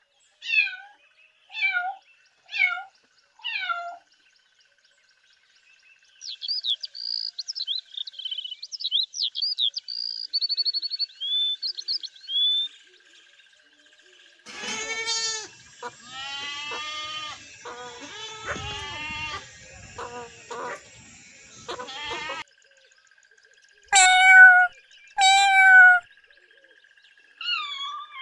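A run of different animal calls: four short falling calls, then several seconds of high bird chirping. Next comes about eight seconds of sheep bleating, and near the end a cat meows loudly twice.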